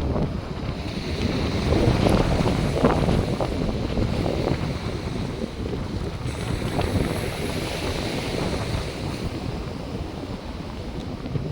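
North Sea surf washing onto a sandy beach, mixed with wind buffeting the microphone in a steady, surging rumble.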